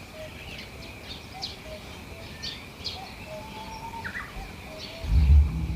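Small birds chirping and calling in a yard: many short high chirps over a run of lower, evenly repeated short notes. Near the end a loud, low, steady hum starts suddenly and drowns the birds.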